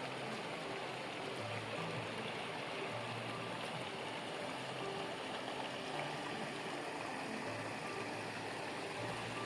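Steady rushing of flowing water, like a stream, with a faint low hum that comes and goes.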